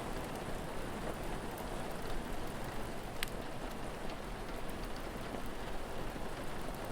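Steady rain falling, with an occasional sharp crackle from a fire, one about three seconds in.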